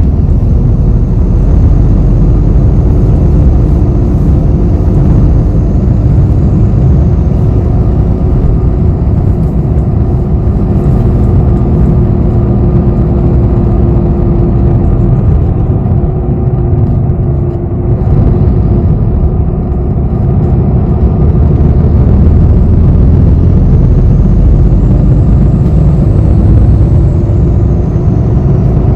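Bus running, heard from inside the passenger cabin: a steady low engine and road rumble that dips briefly about halfway through and picks up again, with a faint high whine rising and falling near the end.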